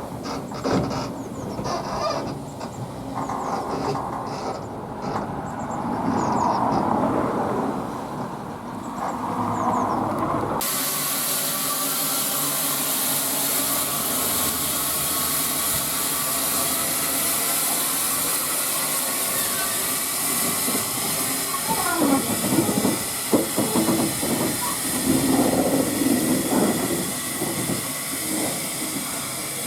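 Narrow-gauge steam train: running and rail noise, then after a sudden change about ten seconds in, a steady hiss of escaping steam from the locomotive. Voices can be heard under the hiss near the end.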